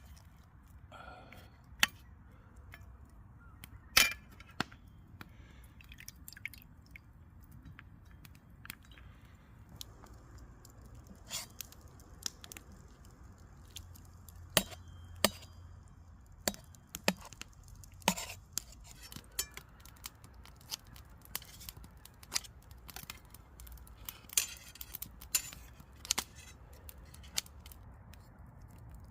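Scattered sharp clicks and knocks, irregular and a few seconds apart, thicker in the middle and near the end, over a low steady hum.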